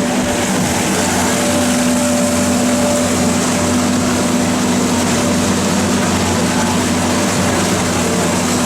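Motorboat engine running steadily underway, a constant low hum over the rush of water and wind.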